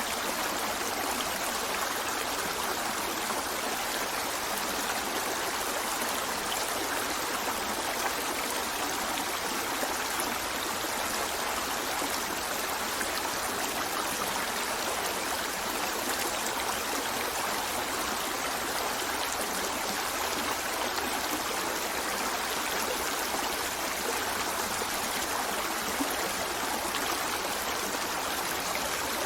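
River flowing, a steady, even rush of water with no breaks or changes.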